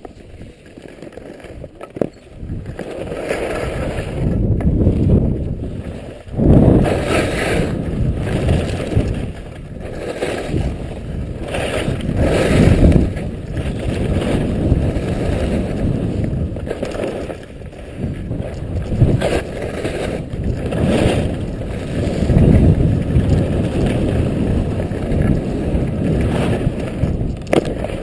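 Wind rumbling over the microphone in uneven gusts that swell and fade every second or two.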